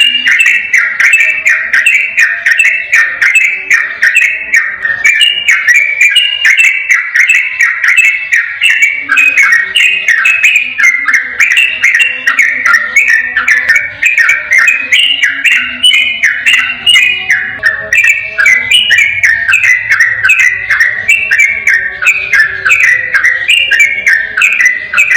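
Sooty-headed bulbul (trucukan) singing its fast 'ropel' song: a continuous, unbroken run of short clear whistled notes, several a second, without any pause.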